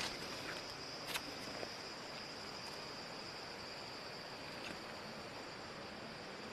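Steady high-pitched chorus of insects in the forest, with a couple of sharp clicks in the first second or so.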